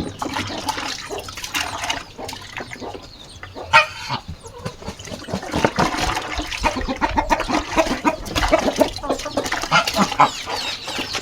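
Chickens clucking, a steady run of short repeated calls.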